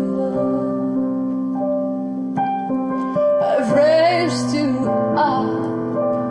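Piano playing slow, held chords, with a short wordless sung phrase gliding up and down about halfway through.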